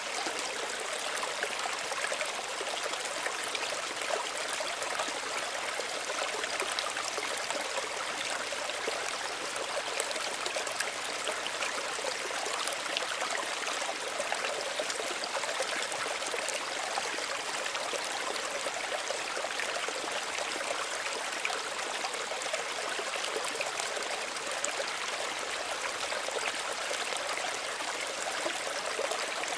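A small stream's water running and trickling steadily over stones, an even rushing with fine bubbling flickers.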